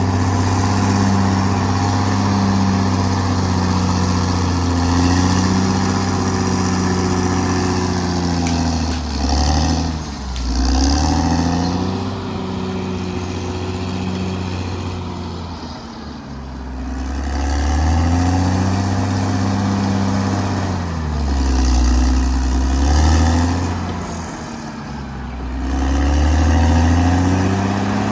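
Caterpillar D6R XL bulldozer's diesel engine running, its engine speed dropping and climbing back several times.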